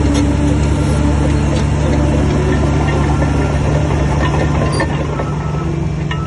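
Heavy diesel earthmoving engine running steadily under light load, with a few faint metallic knocks. It eases slightly near the end.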